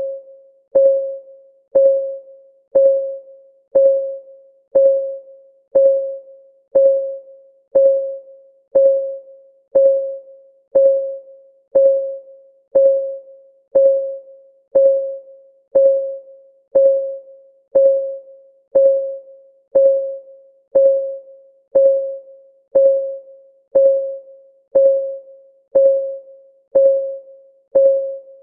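Countdown timer's clock-tick sound: a steady tick about once a second, each a sharp click with a brief pitched ring that dies away.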